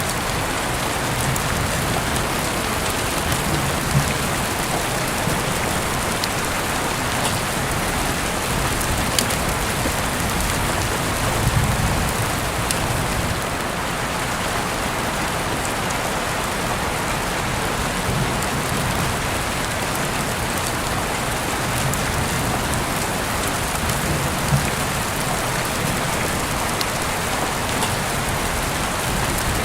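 Heavy rain falling steadily: a dense, even hiss of rain with scattered sharper drop hits.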